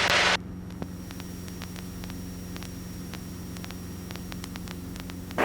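Steady low hum with faint static ticks on the cockpit headset and intercom audio of a Cessna 177B Cardinal, the engine drone muted by the headset system. It comes in when a radio call ends, a fraction of a second in.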